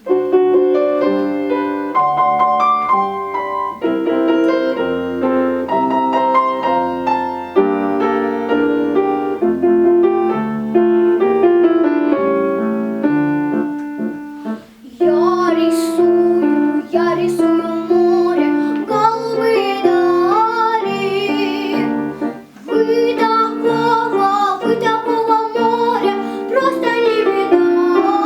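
Piano playing an introduction for about fifteen seconds, then a child's voice starts singing a song over the piano accompaniment.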